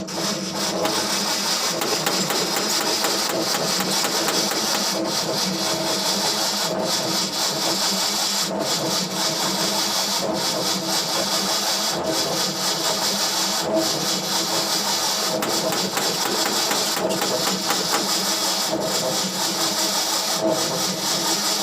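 Starter motor of a 1973 Ford pickup cranking the engine steadily for about twenty seconds without it catching, then cutting off. The cranking is sluggish: the battery is too weak to spin the engine well.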